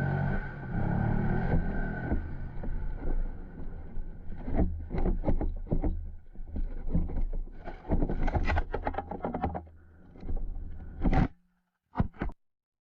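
A motorcycle engine running steadily, then a rapid series of sharp knocks and scrapes from about four seconds in. The sound cuts off abruptly a little over eleven seconds in, leaving a few faint clicks near the end.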